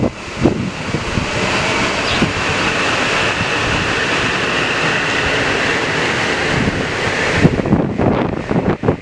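A train passing close by: a steady rush of wheel and air noise with a faint whine that cuts off suddenly near the end as the train clears. Wind then buffets the microphone.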